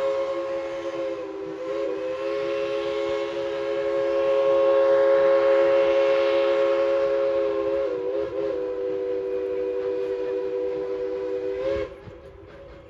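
Steam locomotive whistle blowing one long, steady chord of several notes, wavering briefly twice, then cutting off sharply near the end.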